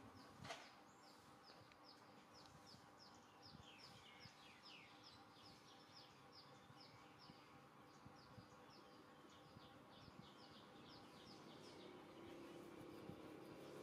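Near silence, with a faint, even series of short high chirps, about three a second, from a small bird calling. A soft tap comes about half a second in.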